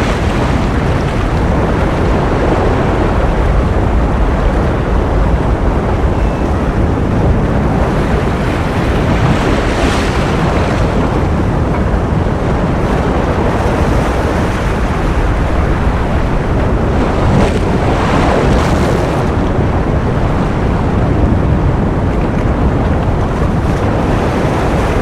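Ocean surf: a steady rush of waves, with brighter washes of breaking water about ten seconds in and again around eighteen seconds.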